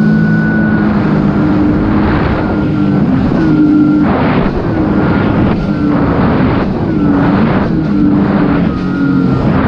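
Sea-Doo jet ski engine running under way on the ocean, its pitch wavering up and down. A burst of rushing noise comes about once a second.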